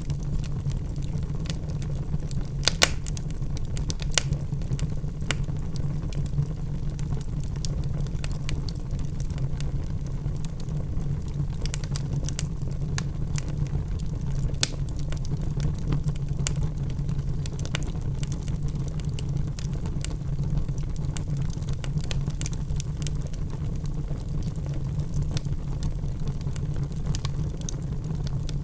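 Wood fire burning in a fireplace: a steady low rumble of flame with scattered sharp crackles and pops from the burning logs, the loudest pops a little under 3 s and about 4 s in and near the middle.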